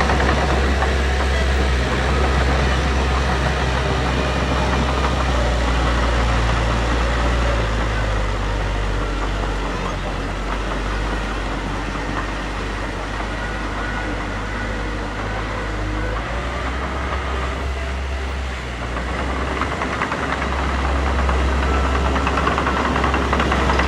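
Diesel engine of heavy earthmoving machinery running, a steady low rumble whose pitch steps up and down a few times. It eases a little in the middle and builds again near the end.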